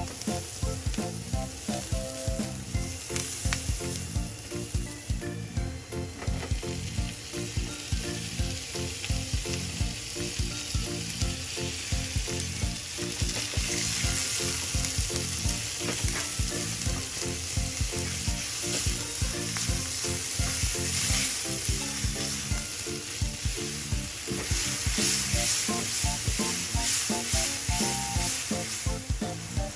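Minced meat with onions and garlic frying in a non-stick pan: a steady sizzle, with a plastic spatula stirring and scraping. The sizzle grows louder about halfway through and again near the end.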